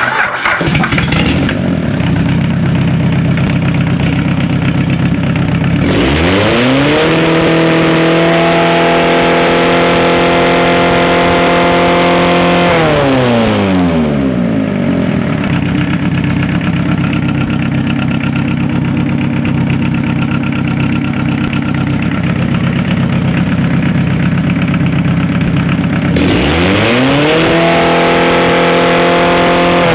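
Mazda 1.7-litre diesel engine idling, then revved up and held at high revs for about six seconds and let back down to idle. Near the end it is revved up and held again. It is a worn engine that blows oil.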